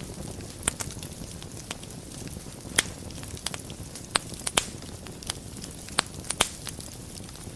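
Fire burning in a fireplace: a steady low rumble of flames with irregular sharp crackles and pops, several a second at times, the loudest pop just before three seconds in.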